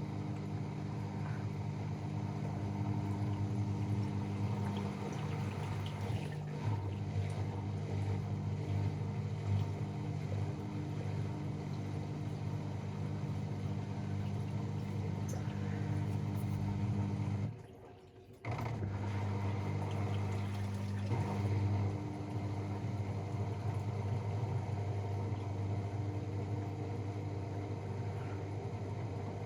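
AEG Protex Plus front-loading washing machine in its final spin, the motor and drum running with a steady hum. About 18 seconds in, the sound drops away for about a second, then resumes.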